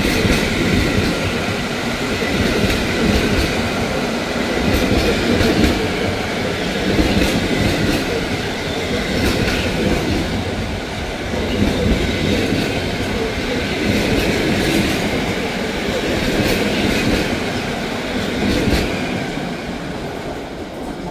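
Passenger coaches of a departing train rolling past, wheels clattering over rail joints and points with a light wheel squeal. The sound fades near the end as the last coach goes by.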